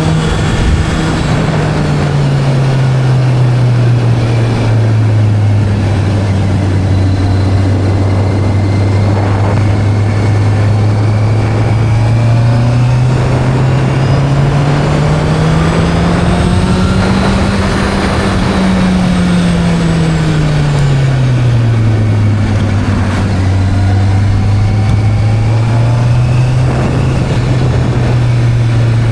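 Motorcycle engine running steadily while riding. The pitch climbs gradually to a peak about two-thirds of the way through, then drops back, over a steady rushing noise.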